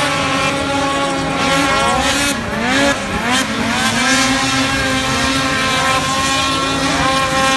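Two-stroke snocross race snowmobiles running hard: one engine holds a steady high pitch while several others rise and fall as they rev, all overlapping.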